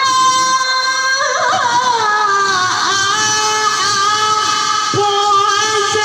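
Long, drawn-out crow of a pelung rooster: one sustained, wavering note that sinks slightly in pitch and holds for several seconds, with a brief break about five seconds in.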